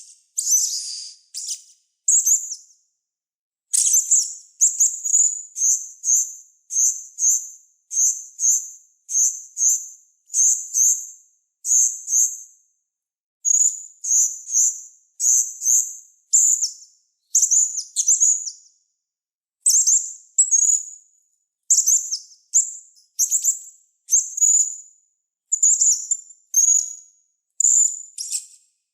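A small songbird singing short, high-pitched chirping phrases, repeated about once a second with clean silent gaps between them, as on an edited training recording for cage birds.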